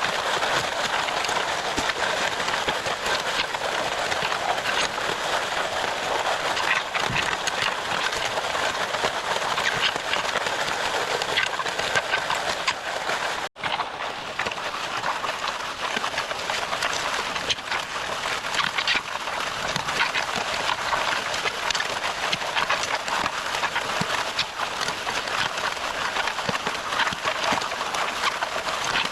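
Concrete mixer-pump running, with a dense rattling clatter of wet concrete and gravel being churned and pumped. The sound drops out for an instant about halfway through.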